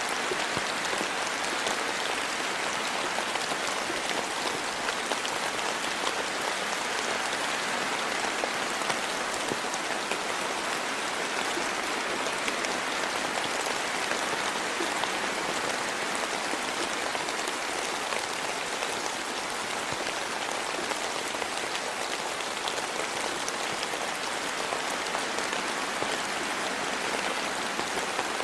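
Steady rain falling, a constant hiss of countless small drops pattering.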